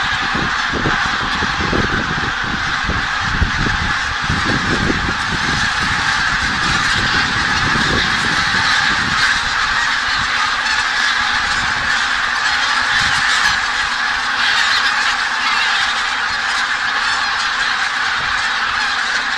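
A flock of geese honking continuously, many calls overlapping, with low rumbling in the first half.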